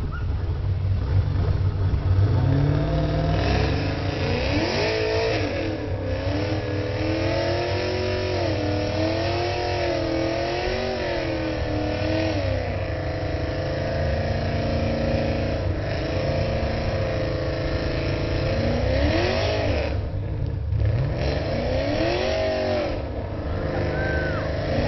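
Pontiac Trans Am's V8 revving hard during a burnout, held at high revs with the pitch wavering up and down. The revs fall away briefly near the end, then climb again.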